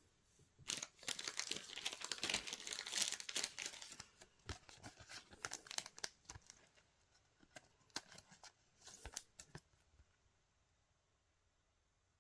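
A trading-card booster pack wrapper being torn open and crinkled for about three seconds, followed by scattered crackles and clicks as the wrapper and cards are handled, then quiet near the end.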